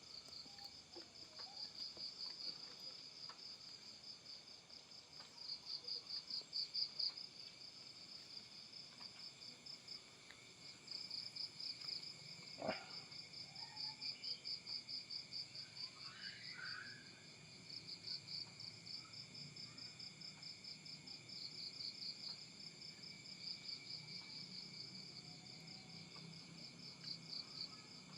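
Insects chirping: a high, rapidly pulsing trill that comes in runs of several seconds. A single sharp click is heard about halfway through.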